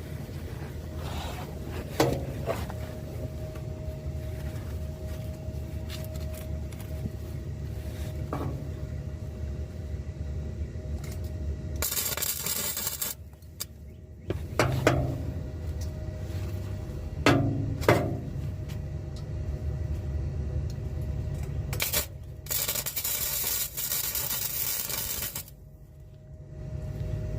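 Flux-core MIG welder arc crackling in two bursts on a car's exhaust pipe, a short one about twelve seconds in and a longer one of about three seconds near the end. Scattered sharp metallic knocks come between them, over a steady low hum.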